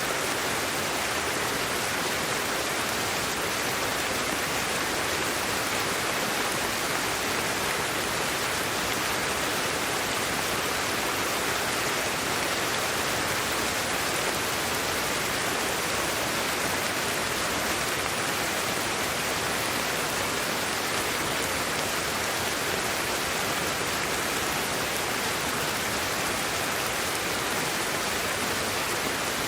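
Steady, unchanging white-noise hiss played as a sleep aid, with no rhythm, tones or clicks.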